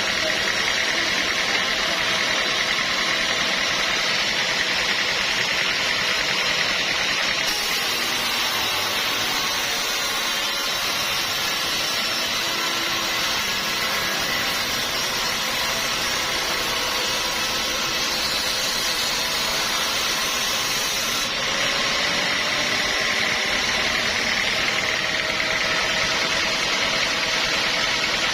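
Sawmill machinery running steadily, with a motor tone under it. The sound shifts abruptly to a brighter hiss from about seven to twenty-one seconds in, then returns.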